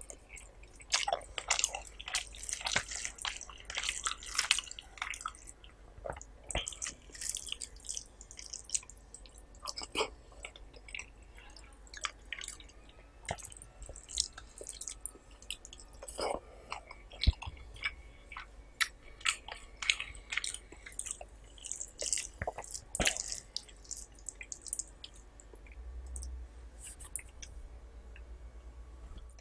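A person eating rice and curry close to the microphone, chewing with many irregular wet smacks and clicks.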